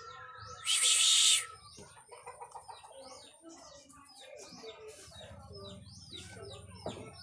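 Small birds chirping over and over in short, quick downward-sliding calls. Near the start there is a loud hissing burst of noise lasting under a second.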